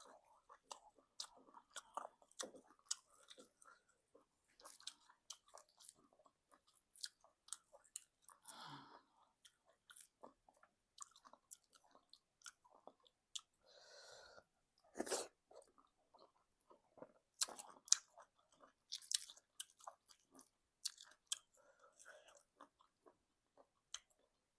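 Close-miked chewing of egusi soup and semolina swallow: irregular wet mouth clicks and smacks, with a few louder ones now and then.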